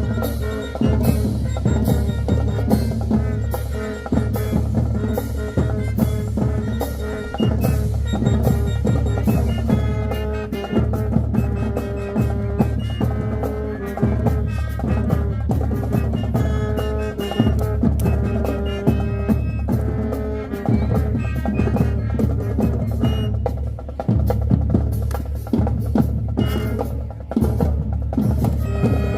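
A high school marching band playing: loud brass over a steady drum-line beat with bass drums.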